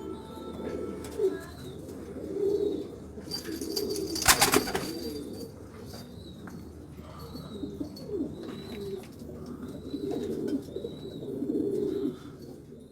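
Domestic pigeons cooing over and over, with a short clatter about four seconds in.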